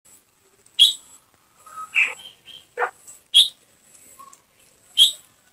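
Bird calls: a handful of short, sharp chirps at irregular intervals, with softer notes between them.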